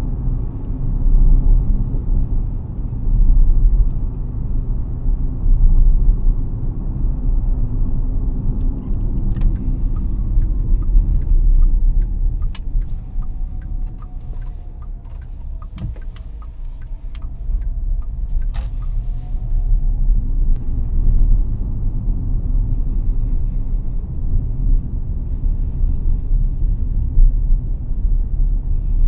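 BAIC BJ30e 1.5T hybrid SUV driving, a steady low rumble of road and drivetrain noise that eases off for a few seconds in the middle. Scattered sharp ticks come through while it is eased off, along with a faint whine that falls in pitch and then holds.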